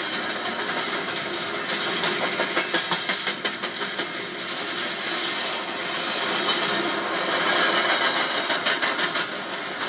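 Double-stack intermodal freight train's well cars rolling past trackside: a steady rush of steel wheels on rail, broken by two runs of quick, rhythmic clicking as wheel sets pass over rail joints, about two seconds in and again near the end.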